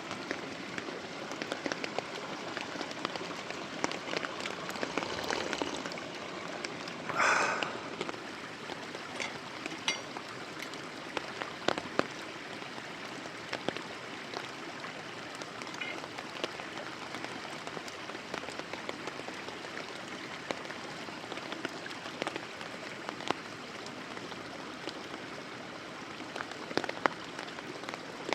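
Wood campfire crackling and popping, with many irregular sharp snaps over a steady hiss, and one louder, longer sound about seven seconds in.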